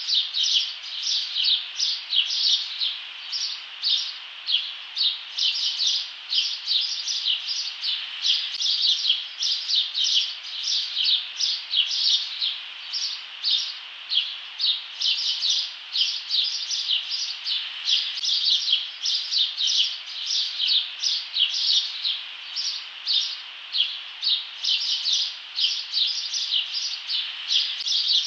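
Small birds chirping without pause, short high chirps coming several times a second.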